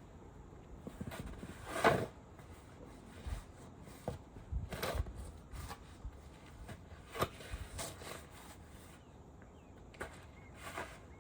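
Scattered knocks and clunks, about ten irregular sharp sounds, the loudest about two seconds in, over a low steady background noise.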